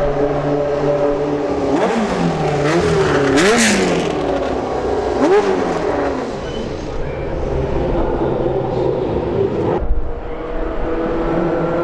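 Historic Formula 1 racing engines running, with several sharp throttle blips about two to five seconds in, each revving up and dropping back quickly.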